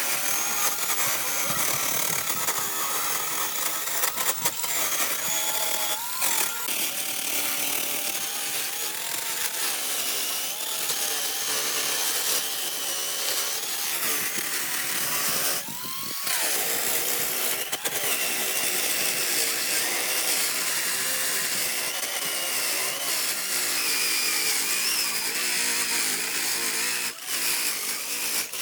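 Power tool working wood, its motor whine wavering steadily with the load. About halfway through the motor drops off briefly and spins back up.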